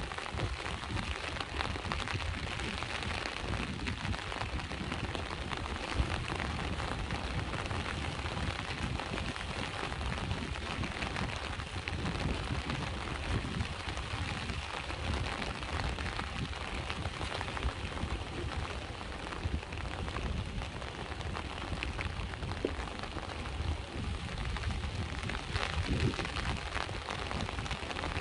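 Steady rain pattering, with a dense scatter of drops over a low, continuous rush of sea waves breaking on the shore.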